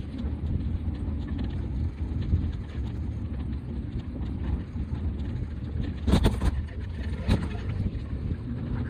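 Steady low rumble of a bicycle rolling along a city street, with two sharp knocks about six and seven seconds in.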